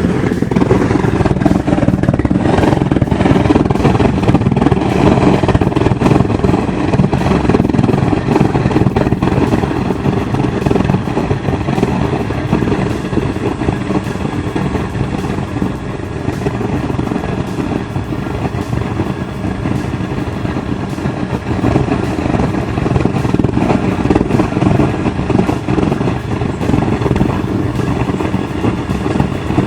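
Blower-fed waste-oil burner running steadily, burning a mix of diesel and used engine oil.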